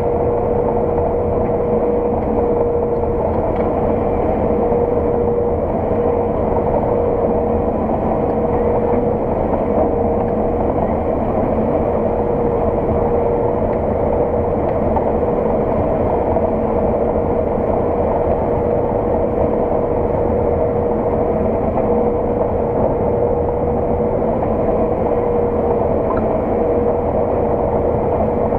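Claas Lexion 600 TT combine harvester running steadily under load while combining oilseed rape, heard from inside the cab: a constant drone with a steady whine from the machinery.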